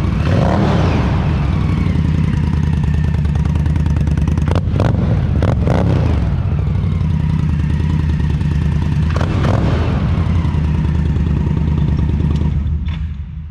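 2015 Indian Scout's liquid-cooled V-twin idling steadily through an aftermarket Vance and Hines exhaust, with a few brief sharp sounds near the middle. The level drops off near the end.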